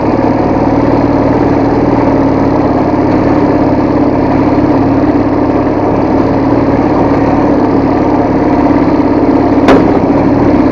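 Soviet motorcycle engine running at a steady, even speed. There is one sharp knock near the end.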